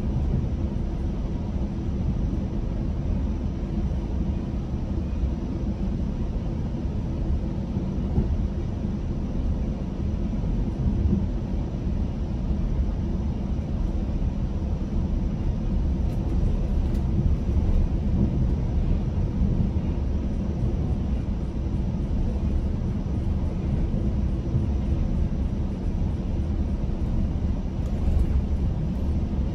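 GO Transit bilevel commuter coach in motion, heard from inside: a steady low rumble of wheels on the rails and running gear, with a faint constant hum.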